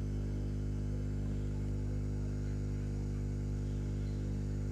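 Steady electrical hum with a stack of even overtones and a faint hiss, from a hot air rework station blowing to desolder a USB-C port.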